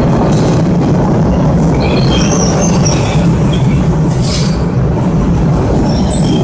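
MBTA Orange Line subway train running with a loud, steady rumble, its wheels squealing in high thin tones about two seconds in and again near the end.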